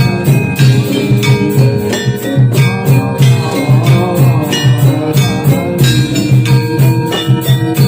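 Jathilan horse-dance accompaniment music played loud, with a steady low drum beat of about three a second, pitched percussion and a high jingling.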